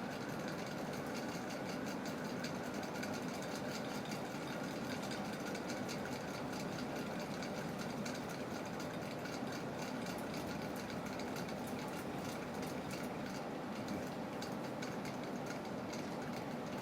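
Bladeless ceiling fan motor running steadily, with a fast, uneven ticking from its bearings, which are stiff and still need working in.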